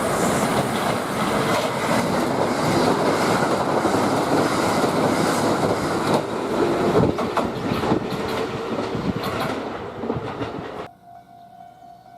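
Kintetsu limited express electric train running past the platform, loud rail and wheel noise with clicks of the wheels over rail joints. It cuts off suddenly near the end, leaving a faint steady tone.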